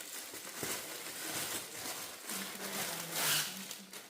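Plastic packaging of boxed mosquito nets rustling and crinkling as they are handled, with a louder stretch of rustling near the end.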